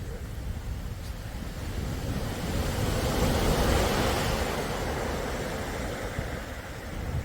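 Sea waves breaking and washing on the shore, one wave swelling to a peak about halfway through and then receding, with low wind rumble on the microphone.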